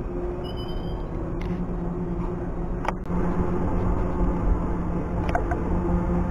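Electric multiple-unit trains moving through the station: wheels rumbling on the rails under a steady hum of traction equipment. About three seconds in there is a sharp clack and the sound gets louder as a Thameslink Class 700 unit comes alongside.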